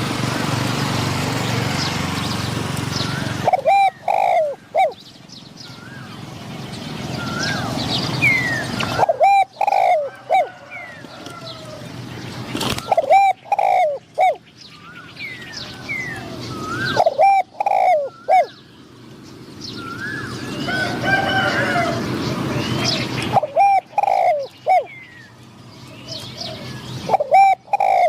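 Spotted doves cooing: a phrase of three or four low, falling coos repeated about every four to five seconds. Smaller birds chirp in between, over a hiss that swells and fades between the phrases.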